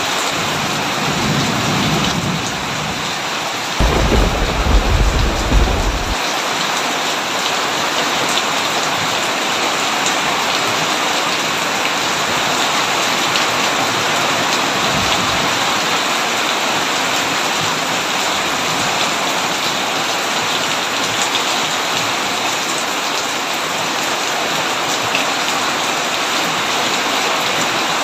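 Heavy rain drumming steadily on a tin roof. Thunder rumbles faintly in the first couple of seconds, a louder peal comes about four seconds in and lasts about two seconds, and a faint low rumble follows about halfway through.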